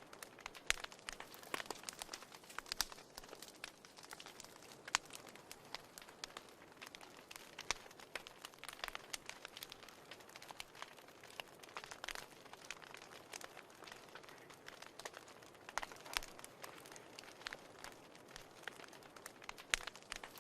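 Wood fire crackling in a fireplace: irregular sharp pops and snaps, some louder than others, over a soft steady hiss.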